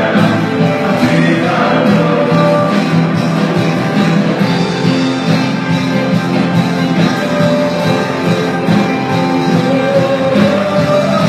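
Live worship band playing a praise song, with a voice singing long held notes over it.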